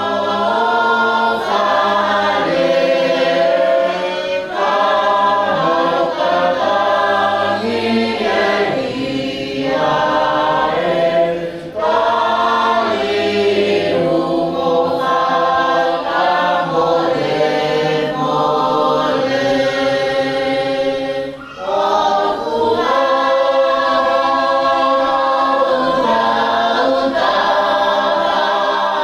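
A choir of several voices singing in harmony, with two short breaks in the singing about 12 and 21 seconds in.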